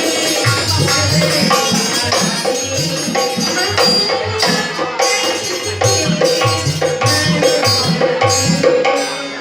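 Instrumental Indian folk music: a dholak drum playing a quick, driving rhythm with the metallic clank of a dhantal keeping time, over a held melody. The music falls away near the end.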